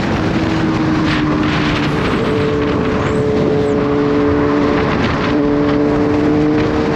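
Kawasaki Z H2's supercharged inline-four engine running at a steady cruise, its pitch shifting slightly a few times with the throttle, over wind rushing past the microphone.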